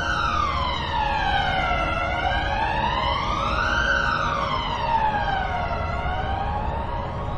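Emergency vehicle siren wailing, its pitch slowly rising and falling in a cycle of about four seconds, over a steady low rumble.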